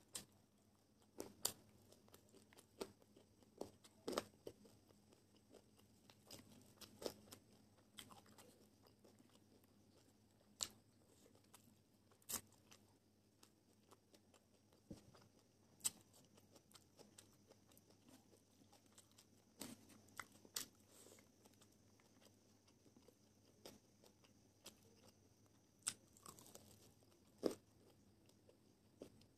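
Quiet chewing and crunching of crispy dry-fried chicken drumstick coating, with sharp, irregular crunches every second or two and the loudest near the end.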